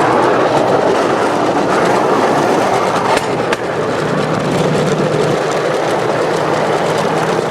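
Bamboo train (norry) rolling along the rails: a loud, steady clatter of wheels on the track mixed with its motor running, with a low steady hum joining about halfway through.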